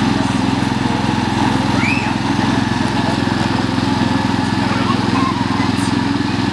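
Tractor engine running steadily at a constant speed, with a fast, even firing pulse.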